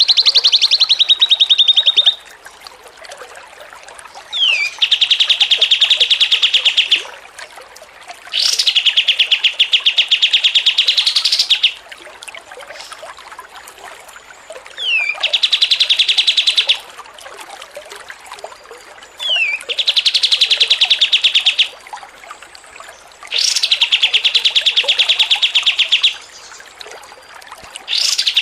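A songbird repeating the same phrase about seven times: a quick downward slide into a rapid, loud trill lasting two to three seconds, with short pauses between phrases.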